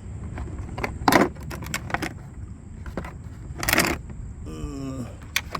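Metal wrenches clinking and clanking against each other as they are sorted out of a tool set: a series of sharp separate clanks, with a longer jangle near the four-second mark.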